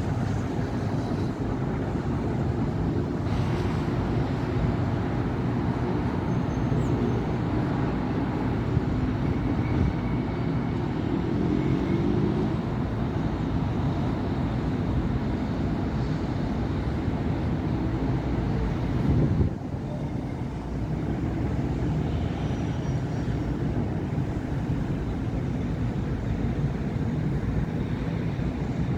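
Continuous city-avenue traffic: a steady rumble of car and bus engines and tyre noise. A vehicle's engine rises in pitch as it speeds up about a third of the way in. A louder vehicle passes, building to a peak about two-thirds through and dropping away suddenly.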